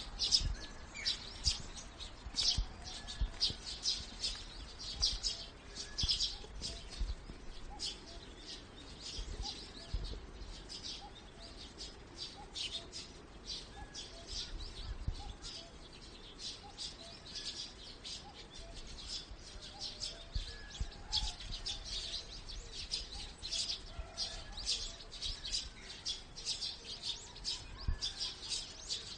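Small birds chirping: many short, high chirps in quick succession, several a second, with a few faint lower notes between them.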